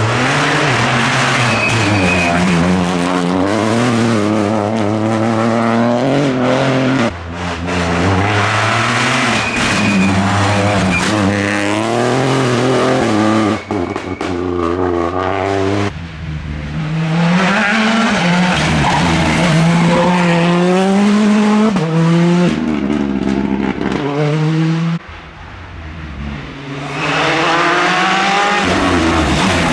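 Rally car engine revving hard on a test stage, its pitch climbing and dropping again and again as it accelerates, shifts and lifts off, with a few brief drops in loudness and a quieter stretch about two-thirds of the way through before it picks up again.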